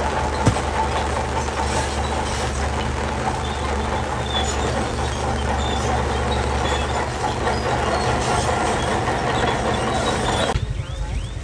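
Heavy diesel earthmoving machinery running steadily: a low engine drone under a dense rattling, scraping noise. About a second before the end the noise drops away abruptly, leaving a lower rumble.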